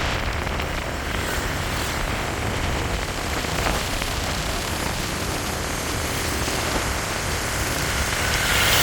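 Road traffic of scooters and cars: a steady rush of engine and tyre noise that swells near the end.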